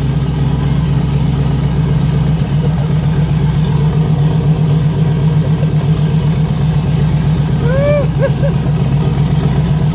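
Twin-turbo LS V8 engine running steadily just after its first-ever start. A person gives a short whoop about eight seconds in.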